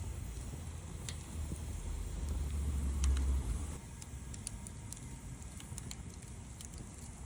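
Wood fire crackling with sparse sharp pops, over a low rumble that swells to its loudest about halfway through and then eases.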